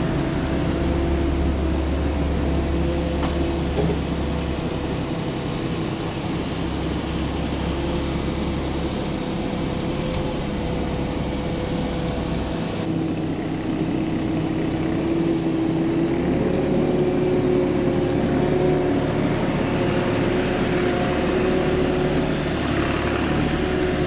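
Heavy equipment engine running steadily under light load, its pitch rising a little about halfway through.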